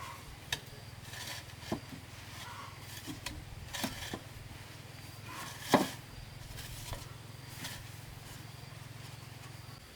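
Scattered sharp knocks and clicks at uneven intervals, the loudest about six seconds in, over a steady low hum that stops just before the end.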